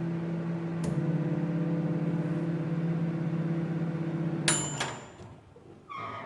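Microwave oven running with a steady hum while it heats a bowl of lemon water to steam the inside clean. There is a small click about a second in. About four and a half seconds in the hum stops with a sharp high beep.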